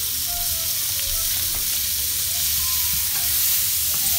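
Sliced onions and pats of butter sizzling in oil in a stainless steel pan, a steady hiss as the butter starts to melt. A wooden spoon starts stirring them near the end.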